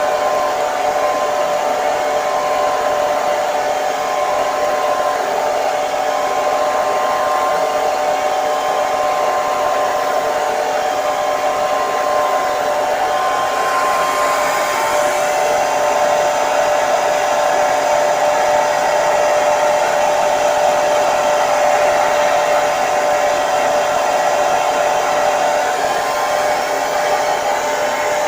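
Hair dryer running continuously: a steady rush of air with a constant motor whine. About halfway through, the hiss turns slightly brighter.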